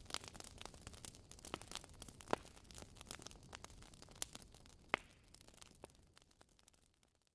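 Wood fire in a fireplace crackling: irregular sharp pops and snaps over a soft hiss, fading out near the end.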